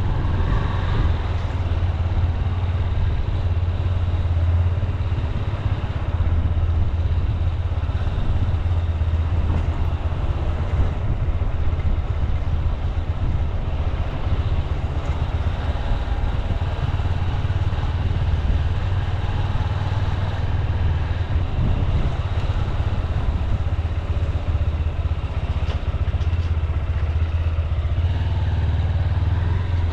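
Honda CB200X motorcycle's single-cylinder engine running steadily during an easy-paced ride, with an even, unchanging note.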